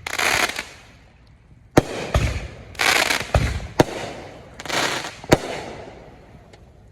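Consumer firework cake going off: dull launch thumps and crackling aerial bursts, with three sharp bangs spaced about two seconds apart.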